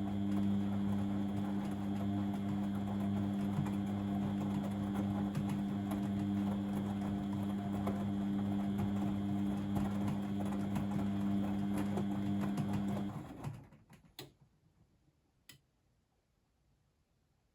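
Blomberg WAF 7442 SL washing machine running with a steady mechanical hum, which stops about thirteen seconds in; near silence follows, broken by two sharp clicks.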